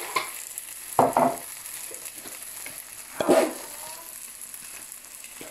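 Onions, tomatoes and spice powder frying gently in a pan on low heat with a faint steady sizzle, broken by a few short clattering knocks and clinks, loudest about a second in and again past three seconds.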